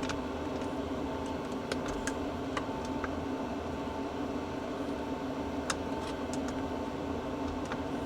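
Scattered small clicks and taps of hands fiddling with battery cables and terminal fittings, over a steady background hum.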